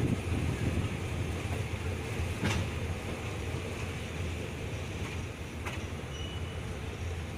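Passenger train carriage running slowly over the track, a steady rumble with two sharp clicks, about two and a half seconds in and again near six seconds.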